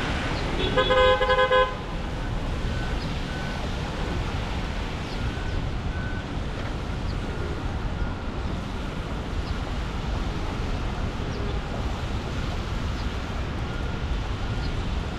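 A vehicle horn sounds once, a single honk lasting about a second, just under a second in. Steady city traffic noise runs under it and carries on after.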